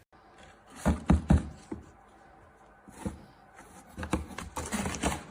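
Three sharp knocks about a second in, then scattered thumps and rustling handling noise in a small room, with a denser cluster of knocks near the end.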